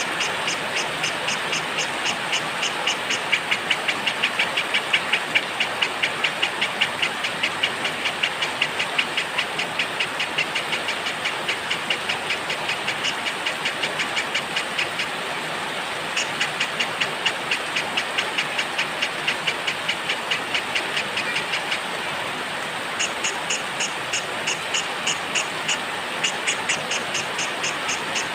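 Steady rain hiss with a fast, even train of high chirps running over it. The chirping breaks off twice, briefly, in the second half.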